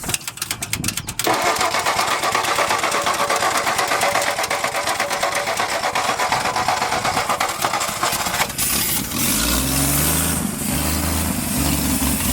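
1962 Ford F-350 engine being cranked over on its starter for about seven seconds. About eight and a half seconds in it catches and runs unevenly, its speed rising and falling.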